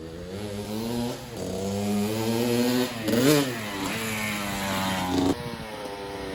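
Dirt bike engine revving hard and climbing in pitch through a couple of gear changes. It sweeps past with a quick rise and fall in pitch about three seconds in. Near the end the throttle is chopped and the engine drops off sharply.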